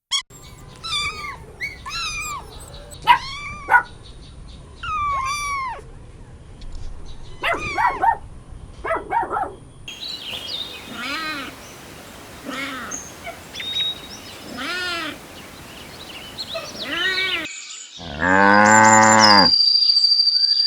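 Kittens meowing over and over in short, high, rising-and-falling cries. Near the end a cow gives one long, loud moo, the loudest sound here.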